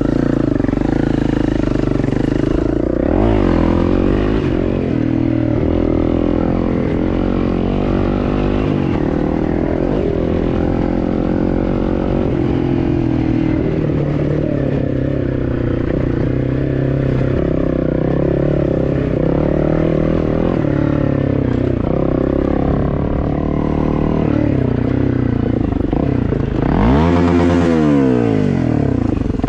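Dirt bike engine running under changing throttle, its pitch rising and falling, with one sharp rev up and back down near the end.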